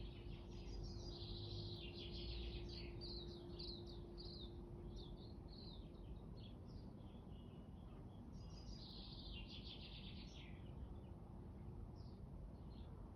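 Small birds chirping in quick, busy runs, densest in the first few seconds and again about two-thirds through, with a faint steady hum that stops about halfway.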